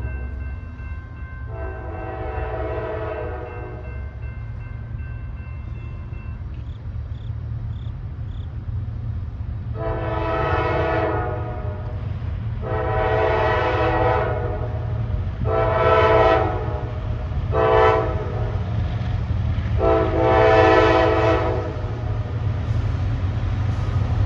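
Horn of a Norfolk Southern diesel locomotive leading a freight train: one blast, then a few seconds later a run of five blasts ending in a long one, a grade-crossing signal. Under it runs the steady low rumble of the passing train.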